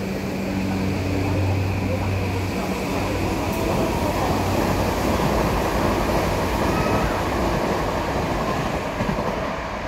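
Tobu N100 Spacia X electric train passing through the station: a low hum at first, then the rumble of wheels on rail building as the cars go by and easing off near the end.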